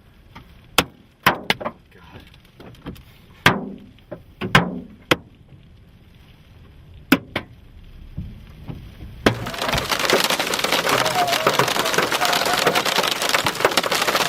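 Large hailstones striking a vehicle as separate sharp bangs, a few a second, then about nine seconds in an abrupt change to a dense, continuous pounding of hail.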